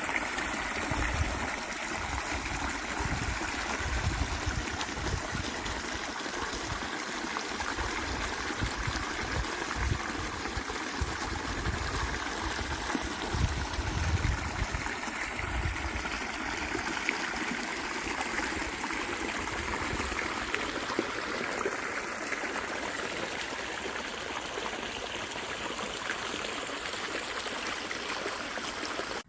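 A small stream flowing and trickling, a steady rush of water, with low rumbling in the first half.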